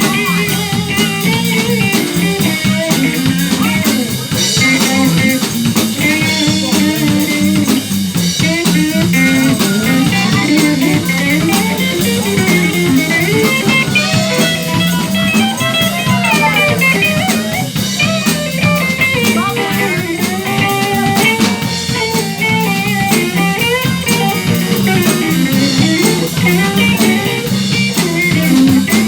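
Live band playing a blues jam: guitar lines over bass guitar and a drum kit, steady and loud throughout.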